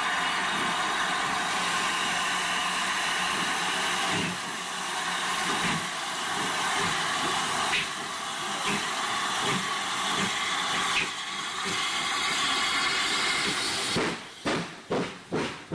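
Steam locomotive hissing steadily, then near the end starting away with its exhaust chuffs coming about two a second.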